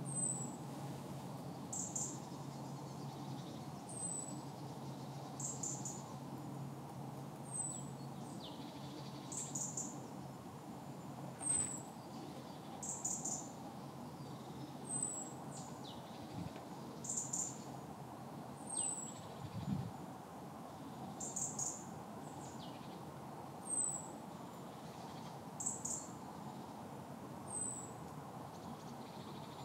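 A bird calling: short high chirps, some sharply falling, repeated about every two seconds, with a few lower falling notes between them. A steady low background hum runs under the calls.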